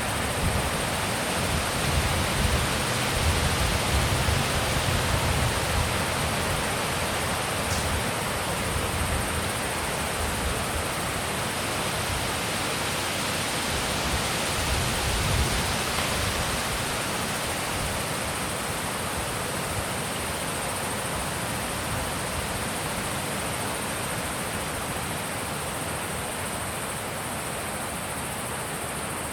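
Wind blowing steadily with a rushing sound, with low buffeting gusts on the microphone in the first few seconds and again around the middle, easing slightly toward the end.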